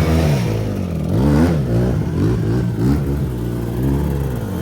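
A motorcycle engine revving up and down over and over, its pitch rising and falling several times as the throttle is worked.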